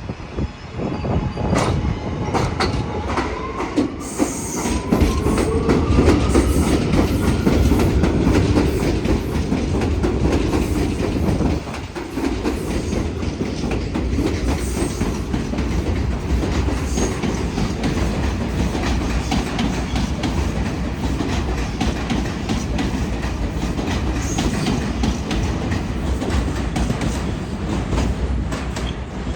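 Kawasaki R211A subway train running on the rails, its traction motors whining upward in pitch during the first several seconds as it picks up speed. The wheels click over rail joints throughout over a steady rumble.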